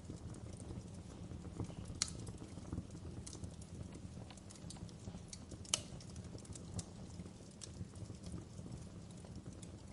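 Wood fire crackling in a fireplace: a steady low rumble of the flames with irregular sharp snaps of burning logs, two louder pops about two seconds in and near six seconds.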